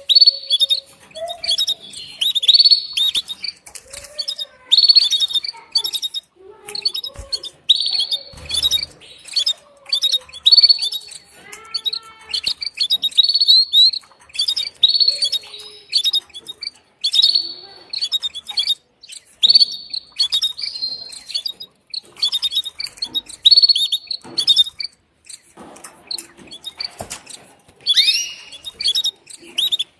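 Female canary giving its mating call, repeated short high chirps about one every second or two: a hen calling to a male.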